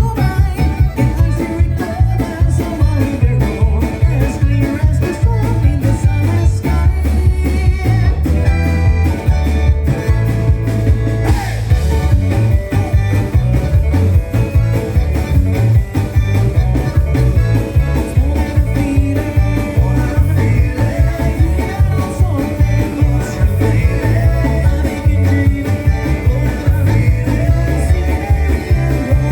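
Live band music with singing: a rock song played in a country/bluegrass style on acoustic string instruments such as guitar, over a steady heavy beat.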